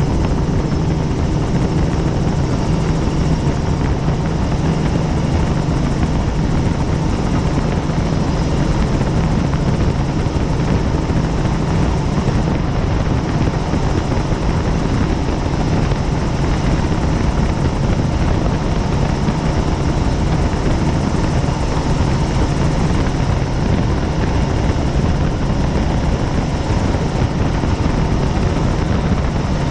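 Helicopter in flight, its rotor and turbine running at a steady loud drone with a constant low hum.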